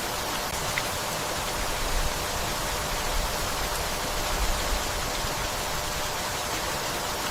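Steady rainfall, an even hiss without a break.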